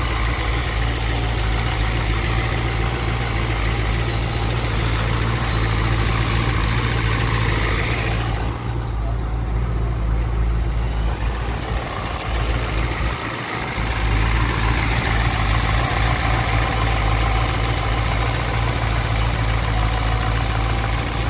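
Twin-turbocharged C5 Corvette V8 idling steadily, a low, even engine note with no revving.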